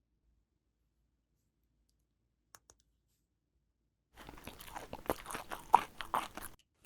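Near silence with two faint clicks, then a little over two seconds of dense crunching and crackling that stops just before the end.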